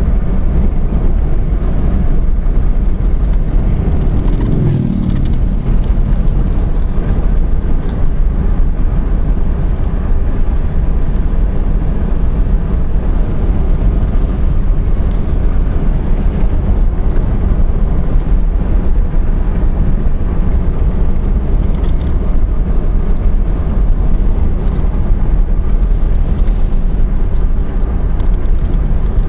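Car driving on a road: steady, loud low engine and tyre rumble, with a brief falling tone about four seconds in.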